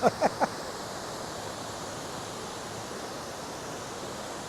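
Steady, even rush of falling water from a waterfall, with three brief falling sounds in the first half second.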